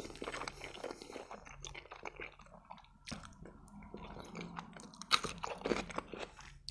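A man chewing a mouthful of macaroni and pickled cucumber close to the microphone, with irregular wet mouth clicks and a few louder ones about five seconds in.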